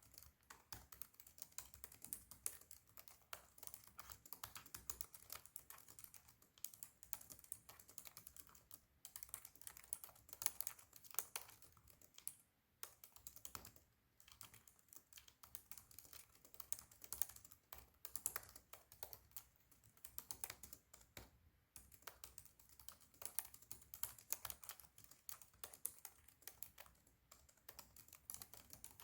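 Fast, continuous typing on a Razer laptop keyboard, rapid clicky keystrokes with a few brief pauses.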